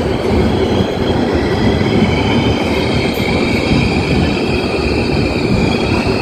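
Moving passenger train, the 16339 Mumbai–Nagercoil Express, heard from on board: a steady rumble of the running coaches with the steel wheels squealing against the rails in several high held tones, which grow louder about halfway through.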